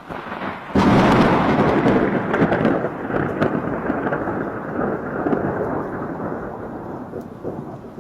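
A loud roll of thunder that breaks sharply about a second in and slowly rumbles away, over falling rain.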